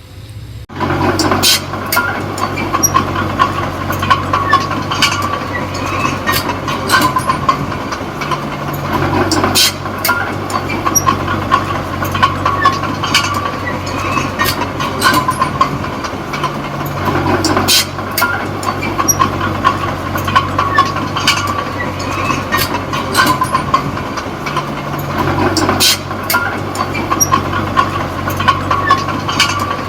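Small crawler bulldozer (Komatsu D20P) working: its diesel engine runs under load, with frequent sharp clanks from the steel tracks and a steady squeal. The engine note changes in a repeating cycle about every eight seconds.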